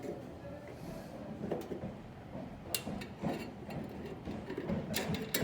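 Screwdriver and screws working against a microwave oven's sheet-metal chassis while a magnetron is fitted: light rustling and scraping with several sharp metallic clicks, two of them close together near the end.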